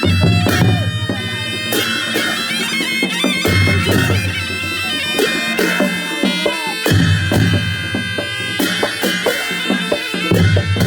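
Nepali Panche Baja band playing: a shehnai-type reed pipe carries a loud, piercing melody over a low drone, with regular drum beats and cymbal clashes.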